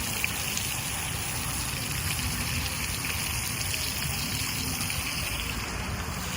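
Water running steadily, as from a small waterfall or stream, with a few faint clicks.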